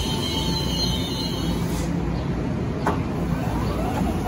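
Metro-North electric commuter train easing to a stop at a platform. The brake and wheel squeal fades out in the first second and a half, leaving a steady low rumble, with a single sharp click about three seconds in.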